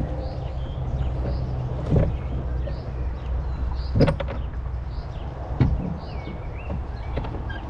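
Rowboat being rowed: the oars knock and creak in their oarlocks with each stroke, about every two seconds, over a steady low rumble of wind on the microphone. A small bird calls repeatedly in short high chirps.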